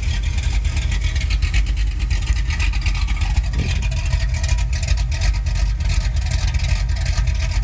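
Plymouth Road Runner's V8 engine idling, with a steady, uneven pulse.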